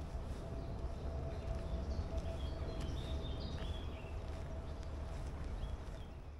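Birds chirping in woodland, several short calls in the middle, over a steady low rumble.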